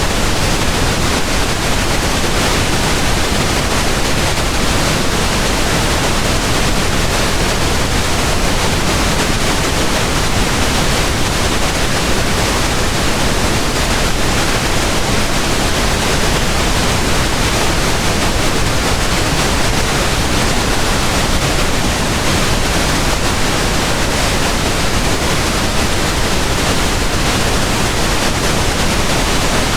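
Steady pink noise: an even, unchanging hiss spread across the whole range from deep to high, with no events or changes.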